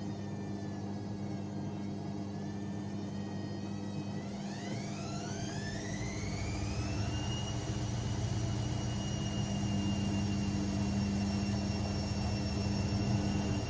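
AEG Lavamat 6610 washing machine's motor and drum speeding up to spin: a whine rises steeply about five seconds in and then holds steady at the higher speed, over a constant hum.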